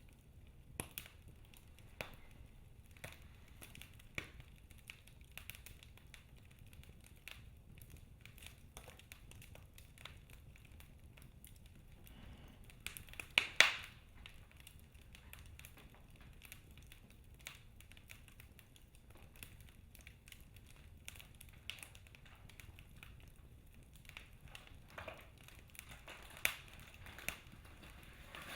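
Wood fire crackling in a fireplace: scattered sharp pops and snaps from the burning logs over a low hiss, with a louder burst of pops about halfway through and another sharp pop near the end.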